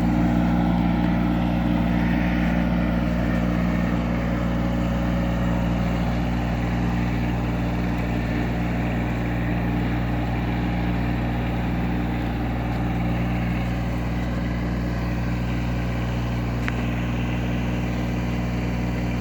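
Tractor engine running at a steady speed, a constant low drone with no change in revs.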